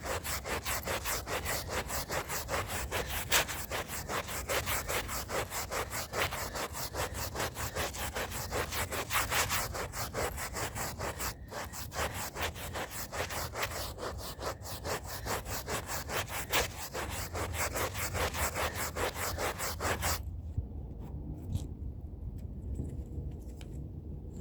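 Stiff hand brush scrubbing a rug's fibres in quick, even back-and-forth strokes, several a second. The scrubbing stops about 20 seconds in, leaving a low steady rumble.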